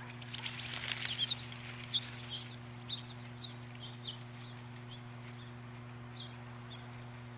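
Small songbirds giving short, high chirps scattered through, busiest in the first second and a half, over a steady low hum.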